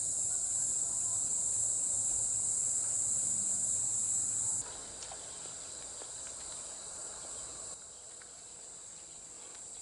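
A steady, high-pitched chorus of insects trilling, which steps down in level twice.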